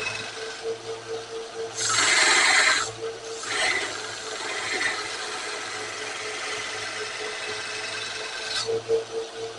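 Powered grinder running while the bevel of a spring-steel knife blade is ground, with the machine's steady hum under a grinding noise that swells loudly for about a second when the steel is pressed harder, and again more briefly near the end.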